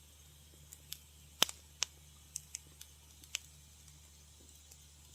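Wood fire crackling: a scatter of sharp pops and snaps, the loudest about a second and a half in, over a faint low hum.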